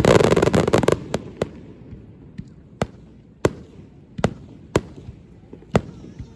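Fireworks display: a dense run of crackling bangs in the first second, then single sharp shell bursts every half second to a second, each echoing briefly.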